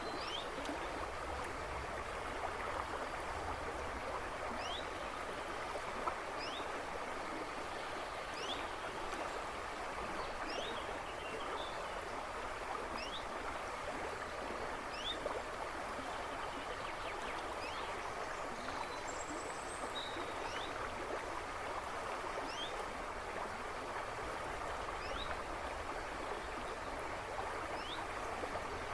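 A river babbling and rushing steadily over stones. A bird in the woods behind repeats short rising chirps every couple of seconds.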